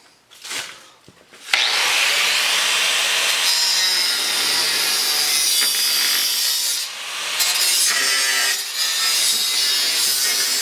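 Power tool cutting through the rusted steel support of a snow plow: a steady, harsh cutting noise that starts about a second and a half in and dips briefly about seven seconds in.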